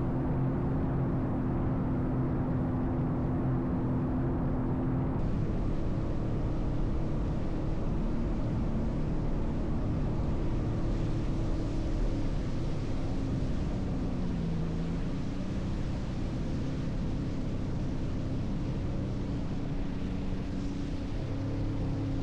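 Sea-Doo jet ski engine running at cruising speed. The pitch dips briefly about fourteen seconds in as the throttle eases, then picks back up. A higher hiss joins about five seconds in.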